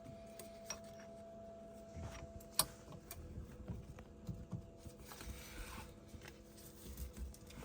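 Faint, scattered clicks and knocks of hand work, with one sharper click about two and a half seconds in, over a faint steady hum.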